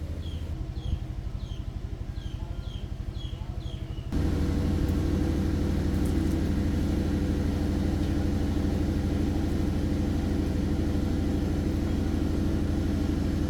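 An engine running steadily with a low rumble. About four seconds in it abruptly becomes much louder and stays that way.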